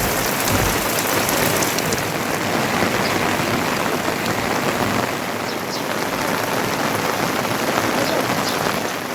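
Heavy rain falling steadily, a dense even hiss of drops with scattered individual drop taps.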